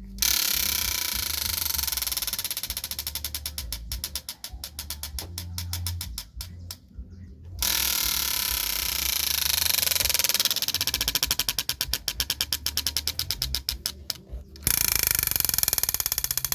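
A stiff L-shaped strip of plastic cut from an old basin, taped so it flicks against turning wheel spokes, makes a rapid clatter imitating a motorcycle accelerating. The clicks speed up and slow down as the wheel turns faster and slower, and they stop briefly about seven seconds in.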